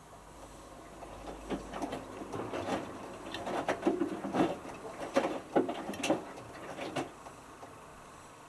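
Hotpoint Futura HF8B593 washing machine drum making one slow tumble: swishing water and a series of irregular light knocks that build up, peak and fade out over about six seconds, then stop.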